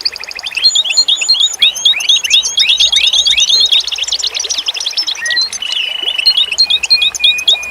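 Several songbirds singing at once in a dense chorus of quick chirps, downward-sliding whistles and rapid trills, with a steady trill held for about a second past the middle.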